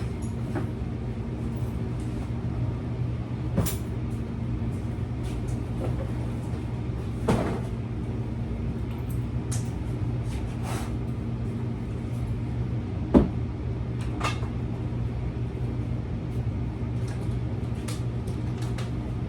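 Scattered knocks and bumps of things being handled and moved about a room, with one sharper knock a little past the middle, over a steady low hum.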